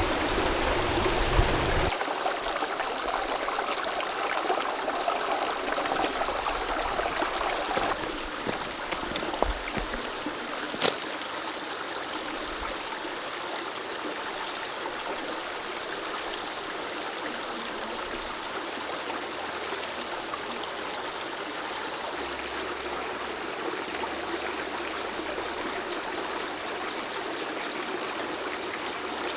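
Mountain stream running steadily, a little louder in the first several seconds, with a single sharp click about eleven seconds in.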